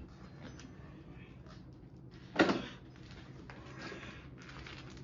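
Faint plastic knocks and rattles from a battered Farberware single-serve coffee maker's lid being worked shut, with one louder knock about two and a half seconds in.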